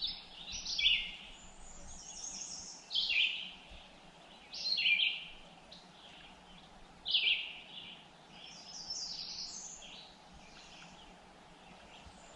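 A songbird singing short, high phrases that repeat every two to three seconds, over a faint steady outdoor hiss.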